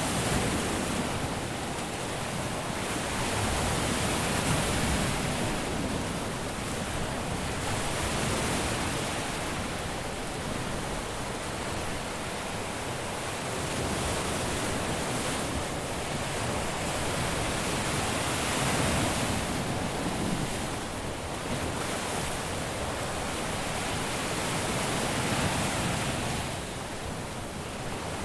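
Caribbean surf washing onto a beach: a continuous hiss of breaking waves that swells and eases every few seconds.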